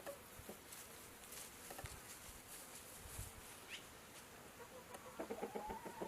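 Faint bird calls with a few short chirps over a soft hiss. About five seconds in, a louder run of rapid pulses begins.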